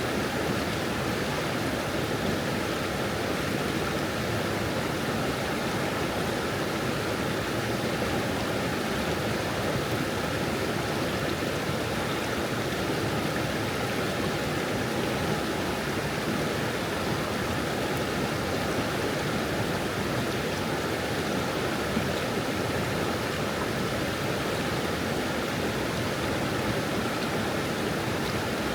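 Small stream babbling and flowing over stones, a steady, even rush of water.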